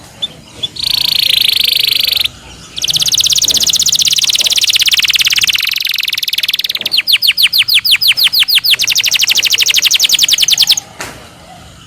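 Domestic canary singing in rolling tours: a short buzzy trill, a long fast roll, then a row of slower downward-sliding whistled notes running straight into another fast trill, which stops about eleven seconds in.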